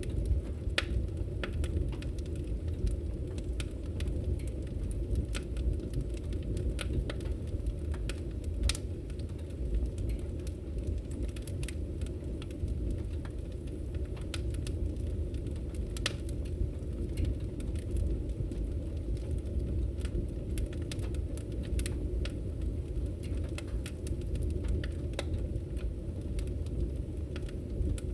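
Campfire burning: a steady low rush with many irregular sharp crackles and pops.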